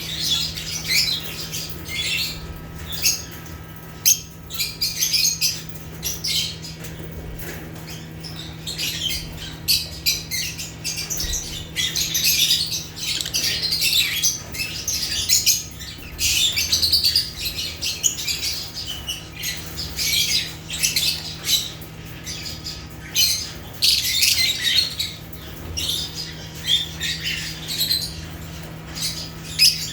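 African lovebirds (Agapornis) chirping and squawking in quick, overlapping bursts that go on without a break, over a steady low hum.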